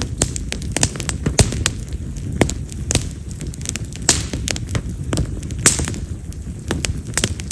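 Wild mountain cherry (yamazakura) firewood burning in an open fire, crackling with frequent sharp, irregular pops over a steady low rush of flame. Several pops are much louder, cracking like firecrackers, as this wood is known to do.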